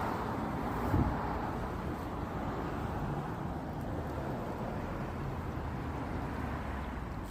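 Steady outdoor background rush with no distinct events, of the kind made by distant road traffic, with a brief louder thump about a second in.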